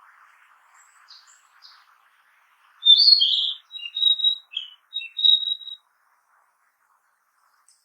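Narcissus flycatcher singing: one loud phrase of short clear whistled notes, starting about three seconds in and lasting about three seconds, after a few faint high notes.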